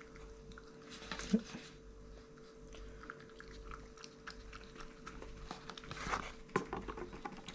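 A pet eating: irregular small chewing and crunching clicks, with a louder snap a little past a second in.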